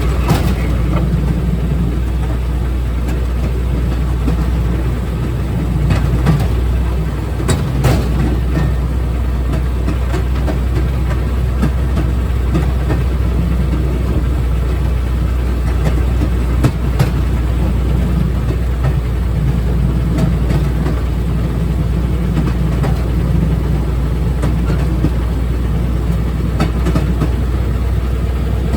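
Railroad speeder (track motor car) running along the rails on a downhill run: a steady engine drone with rail noise and a few sharp clicks.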